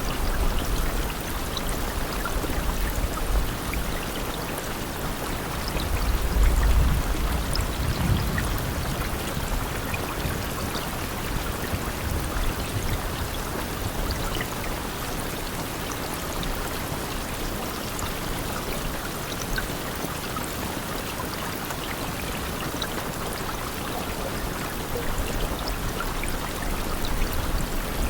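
Steady rain with scattered drop ticks. A low rumble swells briefly about six seconds in.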